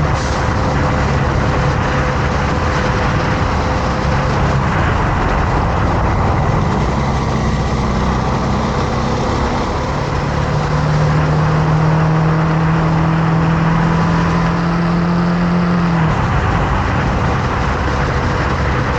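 Motorcycle engine running while riding, over a steady rush of wind noise. A strong, even engine note settles in about halfway through and drops away near the end as the throttle eases.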